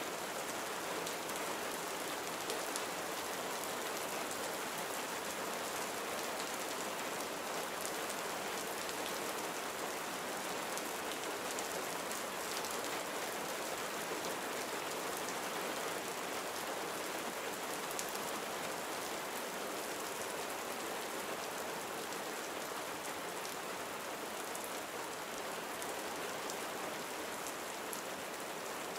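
Steady gentle rain pattering on a surface, with many small drop ticks over a continuous hiss.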